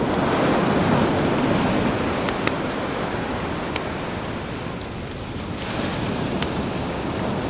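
Sea waves washing in, swelling in the first couple of seconds and ebbing about five seconds in, with a campfire's scattered sharp crackles and pops over the surf.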